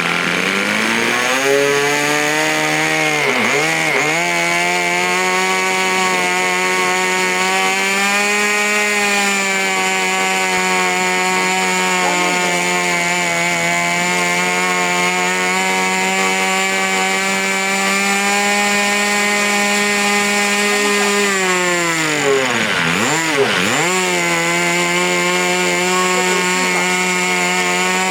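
Model airplane engine on a radio-controlled Sky Kangaroo tow plane, run up during engine tuning. It revs up in the first second or two and holds a steady high speed. Twice it drops sharply in pitch and climbs back, once about four seconds in and again near the end.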